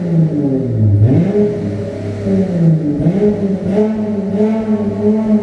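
Chrysler 300's engine being revved while parked, heard through its exhaust. The pitch swings down and back up, dipping low about a second in and again near the middle.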